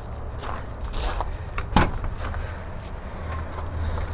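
A few knocks and rustles of handling inside the car, over a low steady hum that grows louder near the end.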